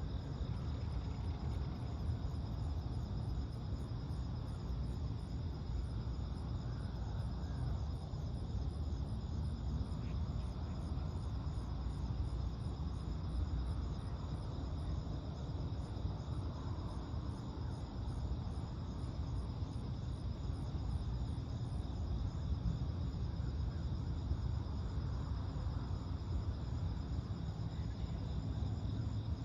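Night insects, crickets or katydids, chirping in a fast, even high-pitched pulse that stops about two-thirds of the way through, over a steady high trill. Beneath them runs a constant low rumble.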